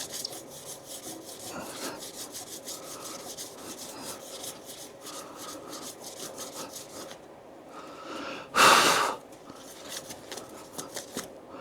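Sandpaper rubbed by hand over a painted motorcycle fender in quick back-and-forth strokes, about five a second, then easing off. A short, loud hiss cuts in near the nine-second mark.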